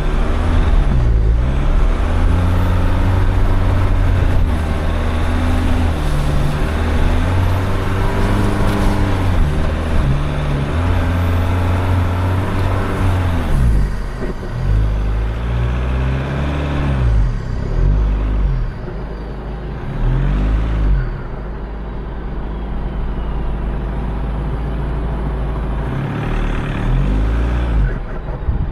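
A motor vehicle engine running and being revved up and down again and again, its pitch rising and falling every second or two.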